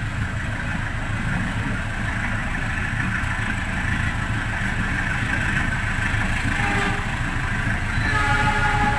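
Passenger train running: a steady rumble and rolling noise of the carriage on the track, with a pitched tone sounding for about a second near the end.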